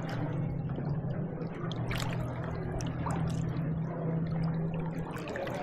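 Water splashing and trickling from kayak paddle strokes, with a few sharper splashes about two and three seconds in, over a steady low hum.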